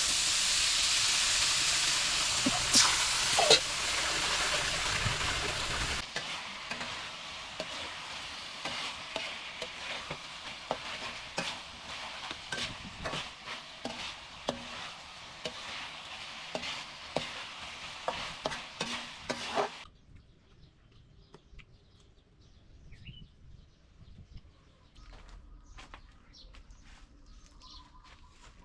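Food sizzling loudly as it fries in hot oil, then a quieter sizzle with many sharp clicks of a utensil stirring in the pan. About twenty seconds in, the frying cuts off suddenly, leaving a faint background with a few bird chirps.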